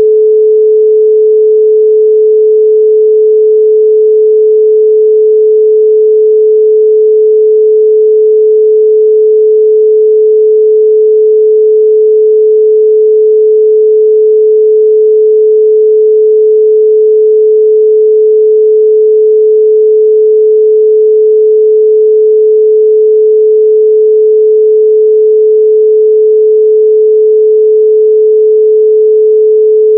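A continuous pure sine tone at 432 Hz, held steady at one pitch and loudness with no other sound.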